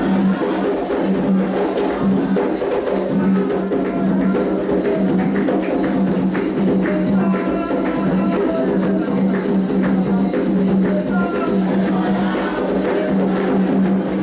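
Candomblé atabaque drums playing a fast, continuous rhythm for the orixá Iansã, with voices singing over the drumming.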